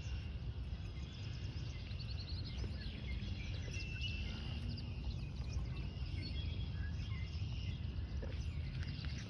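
Many short bird chirps and calls scattered throughout, over a steady low rumble.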